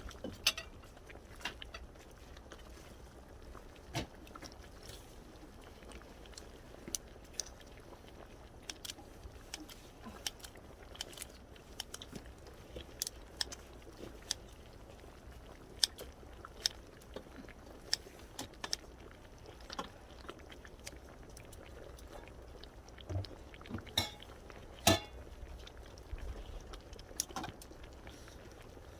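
A person eating: chewing, with scattered sharp clicks and light knocks of utensils against a bowl.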